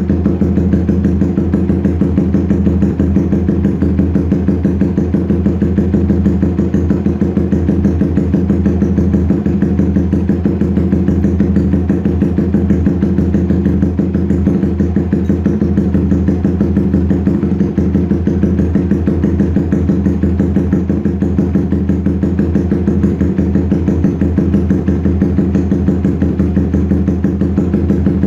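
Motorcycle engine idling steadily through an open SC Project S1 racing exhaust with the dB killer removed, warming up, with a fast even pulse and no revving.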